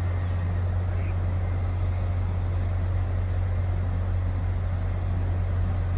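Diesel locomotive of an MBTA commuter train running with a steady low drone at the station platform.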